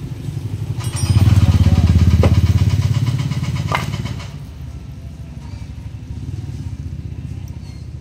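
Motorcycle engine running, swelling louder about a second in for about three seconds and then dropping back to a lower steady run, with a couple of sharp clicks.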